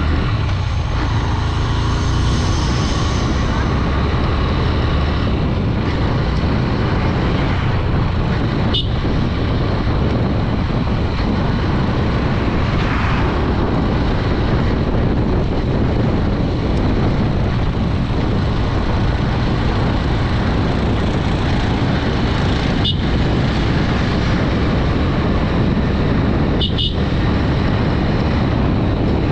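Raw on-board sound of a Honda Dream 110 commuter motorcycle on the move: steady engine and road noise with heavy wind rush on the microphone. Brief high beeps come about nine seconds in and twice near the end.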